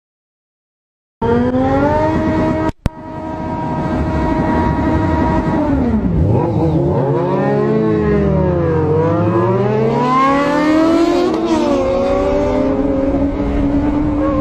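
Motorcycle engine running hard, starting abruptly about a second in with a brief cut-out just after. In the middle its pitch drops and then climbs again as the throttle is eased and opened.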